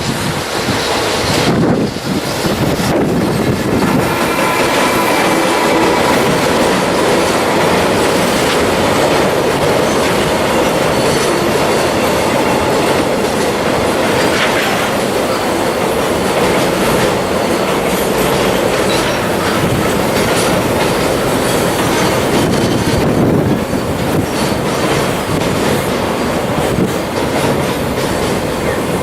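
Container freight train behind an EF210 electric locomotive rolling over a steel railway bridge while slowing down: a steady run of wheel clatter over the rail joints, with faint squealing tones from the wheels or brakes.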